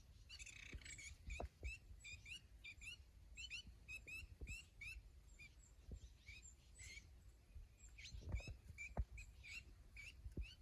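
Birds chirping faintly: short, quick chirps repeated several times a second, with a few soft low thumps near the end.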